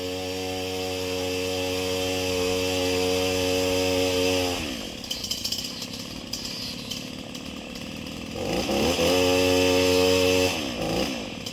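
Gas chainsaw's two-stroke engine held at high revs at a steady pitch, then let off to idle about four and a half seconds in. It is revved up again for about two seconds near the end and let off once more.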